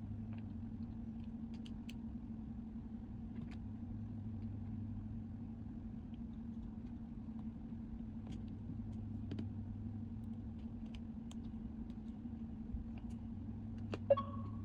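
A steady low mechanical hum with faint, scattered small clicks, and a short, louder pitched blip near the end.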